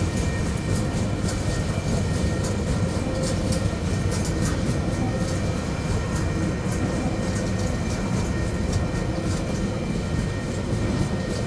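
Loaded container wagons of a freight train rolling past at speed: a steady rumble of wheels on rail with repeated short clicks, and a steady high ringing tone held over it.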